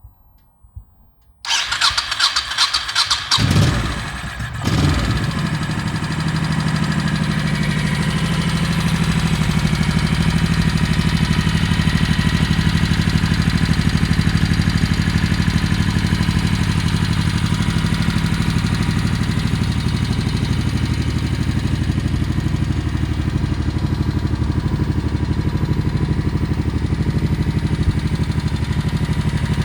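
A Honda VT1100 Shadow Sabre's 1099 cc V-twin is cranked on the electric starter for about two seconds. It catches with a short rise in revs about four seconds in, then idles steadily.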